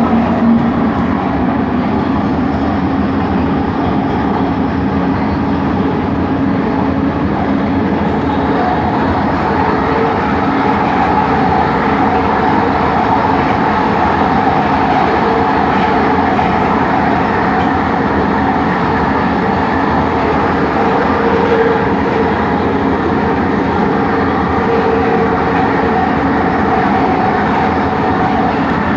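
Bombardier Innovia ART 200 train running at a steady speed, heard from inside the car: a constant rumble of running noise with several steady motor tones held throughout, the motor noise the rider calls weird.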